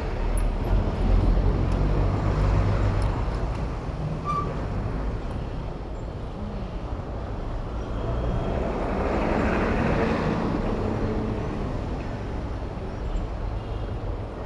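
City street traffic heard from a moving bicycle: a steady low rumble of engines and road noise, swelling about two-thirds of the way through as a vehicle passes close by.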